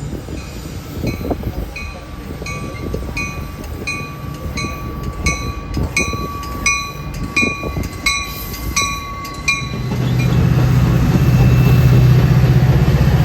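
A train at the tracks with a bell dinging about twice a second, which stops suddenly after about nine and a half seconds. A loud, steady diesel locomotive engine rumble then comes up near the end.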